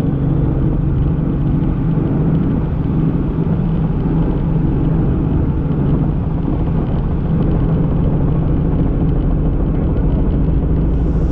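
Steady drone of a helicopter's engine and rotors heard from inside the cabin, a constant low hum with no change in level.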